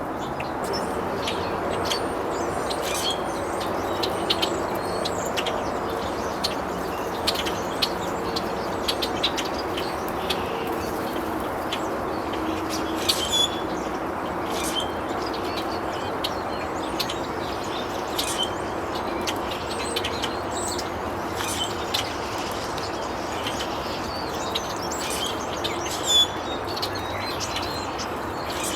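Birds chirping: many short, scattered calls over a steady background hum, with one louder call near the end.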